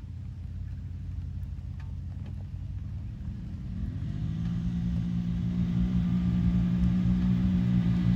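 Off-road vehicle engine running low, then revving up about four seconds in and holding a higher, steady pitch as it grows louder.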